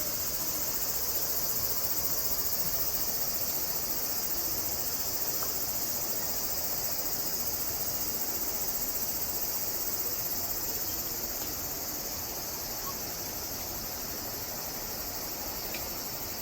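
Insects calling in a steady, high-pitched chorus, easing slightly about two-thirds of the way through.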